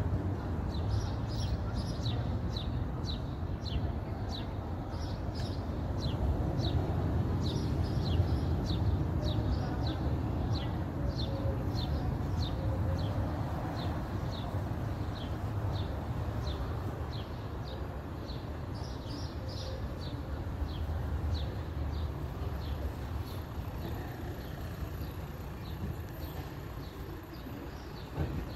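A small bird chirping over and over, short high chirps about two a second, over a steady low rumble of background noise.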